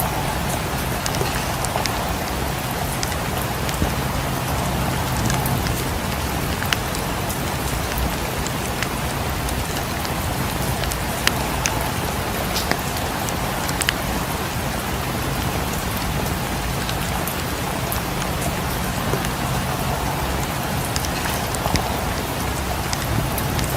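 Steady rain, with scattered sharp crackles of a wood fire now and then.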